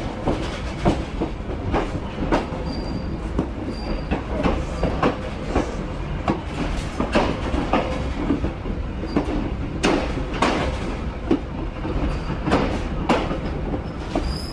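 Andean Explorer passenger train rolling slowly along street track, a steady low rumble with irregular clacks of the wheels over the rail joints, about two a second.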